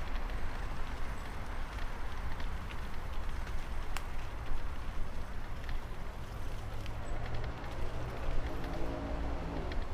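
Wind buffeting the microphone and tyre hiss from a bicycle ridden on a wet path in the rain, with scattered small clicks and rattles. About seven seconds in, a low pitched hum joins for a couple of seconds.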